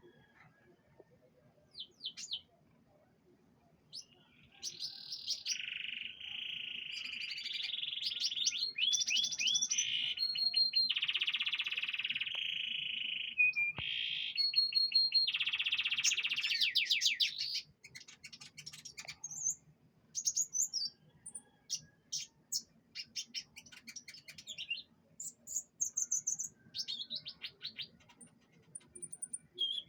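Domestic canary singing: a long unbroken song of rapid trills and rolls lasting about thirteen seconds, then breaking into scattered short chirps and calls.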